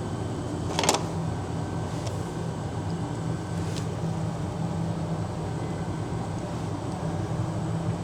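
A rubber stamp knocks down onto paper about a second in, followed by a couple of lighter taps, over a steady low machine hum.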